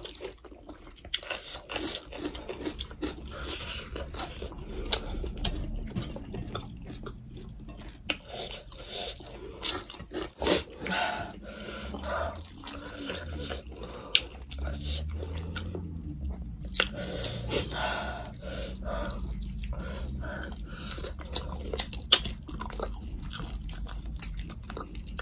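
Close-up eating sounds of two people: chewing, biting and wet mouth smacks in a quick, irregular run of small clicks, with one sharper click near the end.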